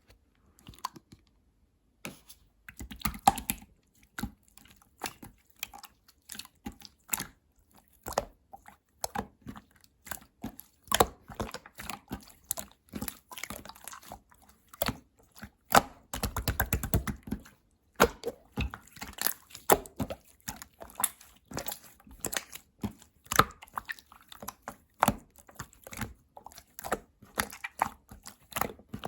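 Sticky milky slime being squished and poked by hand, giving an irregular run of wet clicks and small pops, with a longer, denser squelching stretch a little past halfway.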